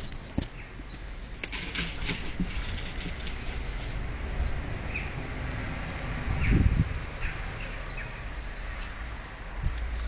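A small bird calling a regular series of short, high, slightly falling chirps, about two or three a second, in two runs with a gap between them. Scattered crunches and a louder low bump a little past halfway sit underneath.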